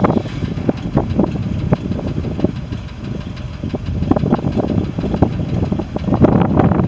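Ford grain truck's engine idling, with wind buffeting the microphone.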